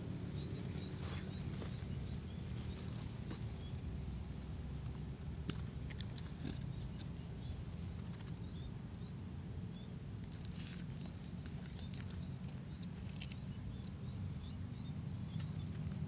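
Small birds chirping: short high chirps repeating about once every second or so, over a steady low background rumble.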